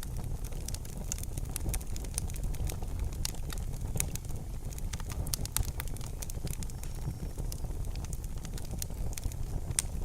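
Wood fire in a fireplace crackling, with many irregular sharp pops and snaps over a low, steady rumble of the burning.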